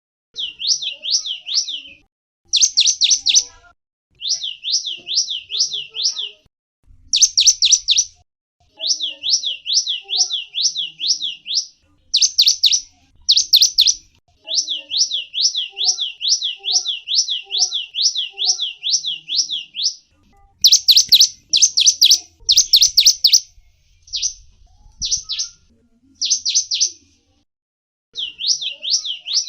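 A small songbird calling in repeated phrases of quick, high, down-sweeping chirps, about five a second. Each run lasts one to three seconds with short pauses between, and a few louder notes come in clusters.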